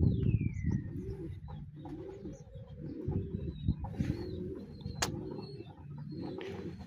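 Pigeons cooing over and over, the coos overlapping. A thin high call falls in pitch at the start, and there is one sharp click about five seconds in.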